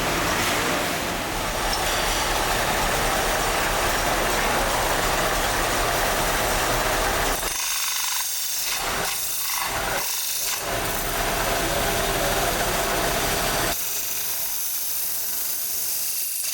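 Workshop machinery running with a loud, steady mechanical noise. The deeper part of the noise drops away for a few seconds midway and again near the end.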